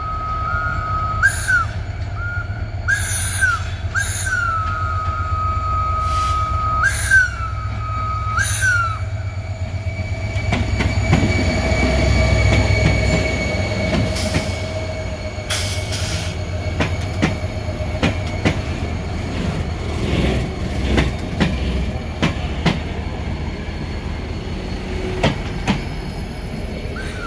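Two trains passing each other. Over the first nine seconds a steady high train tone sounds, with half a dozen short upward swoops. Then the diesel engine of an EMD GT46AC freight locomotive rumbles past close by, followed by loaded phosphate hopper wagons rolling by with wheels clicking over the rail joints.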